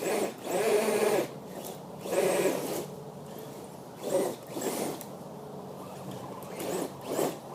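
Radio-controlled truck's electric motor and drivetrain whirring in four short bursts of throttle, with pauses between.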